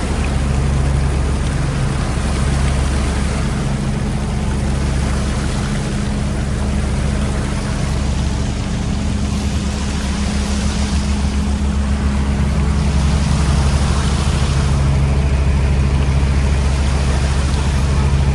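Fishing boat's engine running steadily, its low hum swelling and easing at times, with a rushing wash of noise over it.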